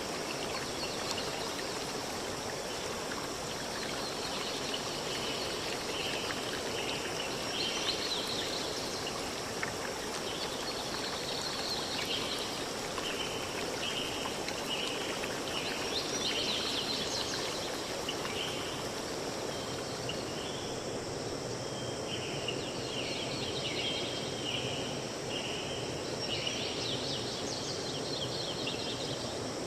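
Steady rush of a flowing stream, with birds chirping over it in many short repeated notes and brief high twitters.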